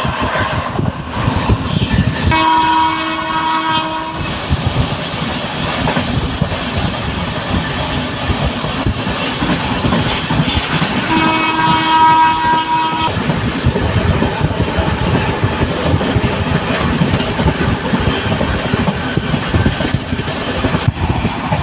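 Passenger train running, heard from a coach window: steady noise of wheels on the rails, with a train horn blowing twice, each blast about two seconds long, one near the start and one about halfway through.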